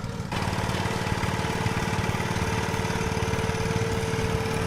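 Antique engine running at a steady idle with even, rhythmic firing; about a third of a second in, a steady whine and a louder rush of machine noise join it and carry on.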